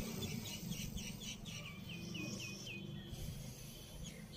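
A small bird chirping a quick series of short high notes, about four a second in the middle, over a faint low background rumble.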